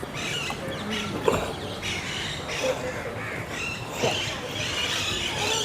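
Many birds chirping and calling in short, repeated notes among the trees, over a murmur of people's voices, with a couple of sharp clicks.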